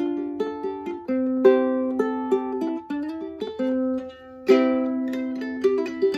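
Alto ukulele with a Bearclaw spruce top and bird's eye maple back and sides being played: a run of plucked notes and chords, a brief gap about four seconds in, then a ringing chord.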